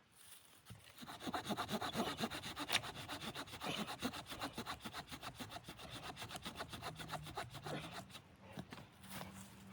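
Hand saw cutting through wood in fast, even back-and-forth strokes, starting about a second in and stopping near the end.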